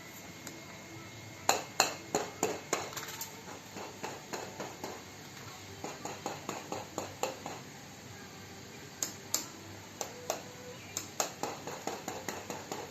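Runs of sharp, hard taps on a hard object, several a second, loudest about a second and a half in and again near the end: the loud sound that makes rice bounce on a covered jar to show vibration.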